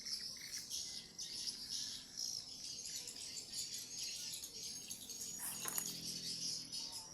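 Swiftlets chirping densely, a continuous high twittering. One brief sharp noise sounds about five and a half seconds in.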